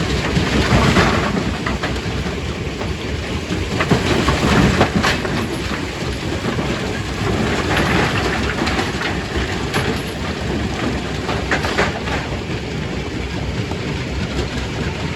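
Stone-crushing machinery running, a continuous loud din of rock being crushed, with occasional sharper knocks of stone.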